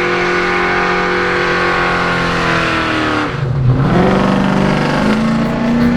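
A car engine under load, its pitch falling slowly for about three seconds, then dropping sharply and climbing again as it accelerates.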